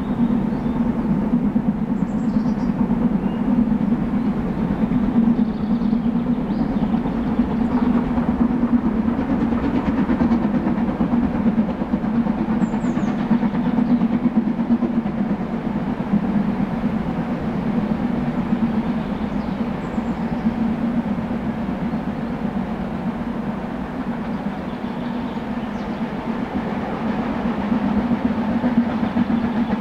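Metre-gauge train running steadily along the line, wheels rolling on the rails, loud and even throughout.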